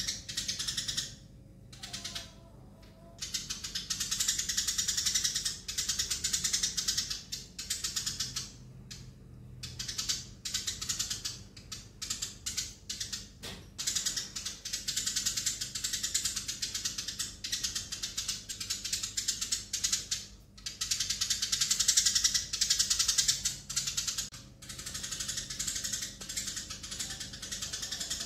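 Eurasian tree sparrows chattering: rapid, dense chirping in long bursts broken by a few brief pauses.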